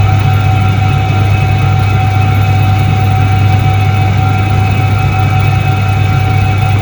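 1978 Soviet Iset-3 washing machine running, giving a steady low hum with a fainter steady higher tone above it.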